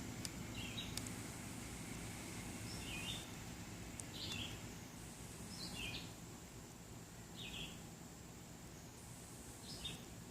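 A bird calling: short high calls repeated every second or two, over a faint low outdoor hum, with a few faint clicks in the first few seconds.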